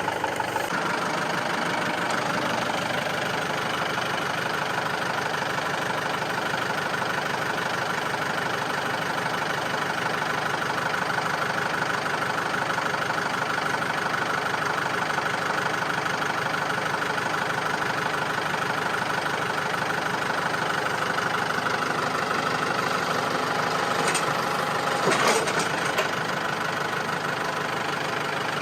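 Tractor engine running steadily, with a few sharp knocks near the end.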